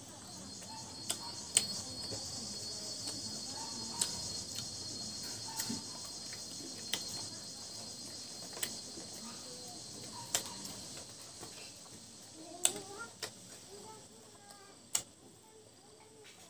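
Close-up eating sounds: sharp wet smacks and clicks of chewing a mouthful of rice and mutton curry eaten by hand. Behind them, an insect trills steadily and high, fading away in the second half.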